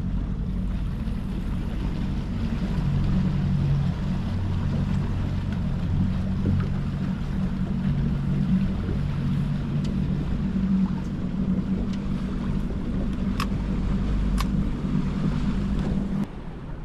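A small boat's motor running steadily under way, with a low, even hum that drops off sharply near the end as it is cut back. Two short sharp clicks sound just before that.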